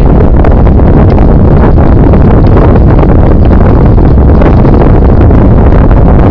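Loud, steady wind buffeting on the microphone of a camera riding along on a moving bicycle.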